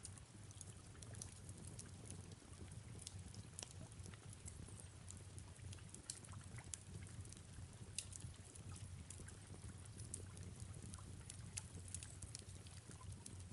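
Faint fireplace-and-rain ambience: a steady low rumble under soft rain, with scattered sharp crackles from the fire.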